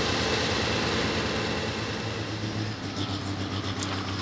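Super stock pulling tractor's diesel engine running hard, a loud rushing noise that eases about two seconds in, leaving a steady engine drone.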